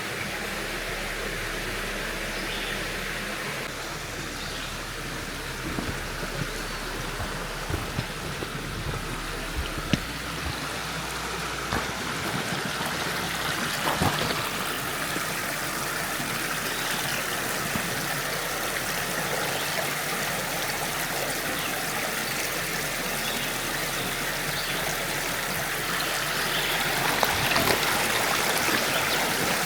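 Creek water rushing steadily over rocks, with a few short knocks scattered through it.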